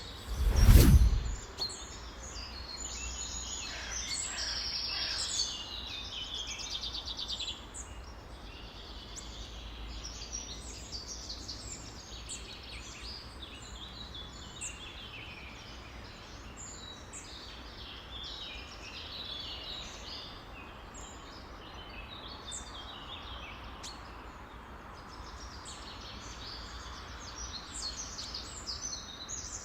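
A chorus of many songbirds chirping and trilling over a steady background hiss. A single loud whoosh comes about a second in.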